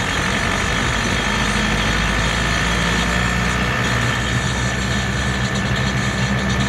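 Truck engine running steadily, heard with a constant high whine over the low engine note.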